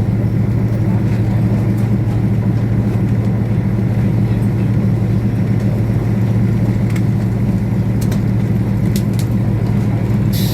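Diesel-hauled passenger train's steady low engine hum and rumble, with a few faint clicks near the end.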